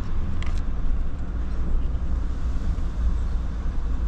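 A car driving on a road, heard from inside the cabin: a steady low rumble of engine and tyres. A brief click comes about half a second in.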